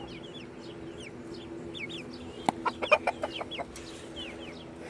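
Backyard chickens clucking, with many short, high, falling peeps and a quick cluster of sharp taps about two and a half seconds in.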